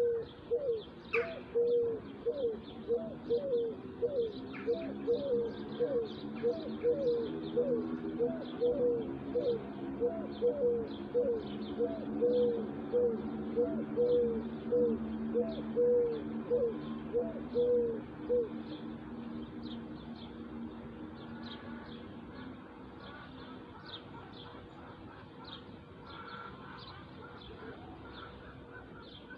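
Birdsong: a bird repeats a short, low call a little more than once a second, over a lower droning sound, until it stops about eighteen seconds in. Small birds chirp faintly throughout.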